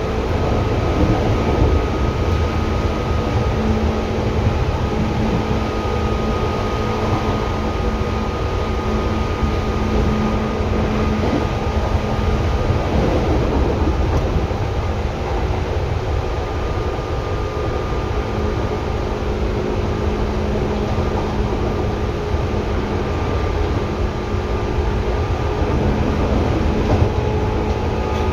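Seibu 2000 series electric train heard from inside the car directly above its HB-2000 underfloor equipment: a steady rolling rumble with several steady droning tones from the equipment beneath the floor.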